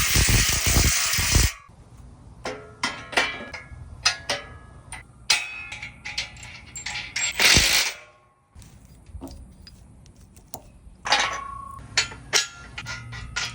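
A loud, even whirring noise cuts off about a second and a half in. Then come scattered metallic clanks and clicks of tools and metal parts being handled, some ringing briefly, with a louder rush of noise around seven and a half seconds.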